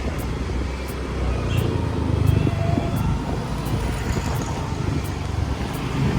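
Motorbike running along the road, a steady low engine and road rumble that swells a little about two seconds in.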